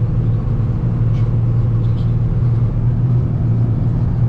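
Old pickup truck driving, heard from inside the cab: a steady low engine drone with road noise.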